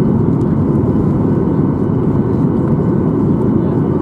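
Steady low rumble of a Boeing 737-800 heard from inside the passenger cabin, with a faint steady whine above it.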